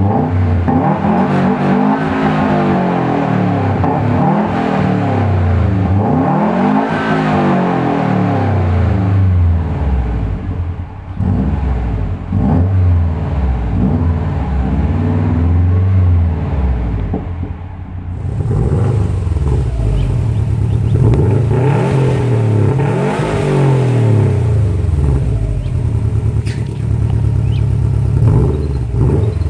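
A car engine revved repeatedly through a loud aftermarket exhaust, its pitch rising and falling with each blip of the throttle. About two thirds of the way through it cuts to a different recording of revving.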